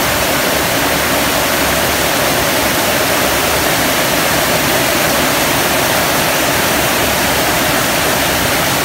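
Heavy tropical rain falling on corrugated metal roofs, a loud, steady rush without letup.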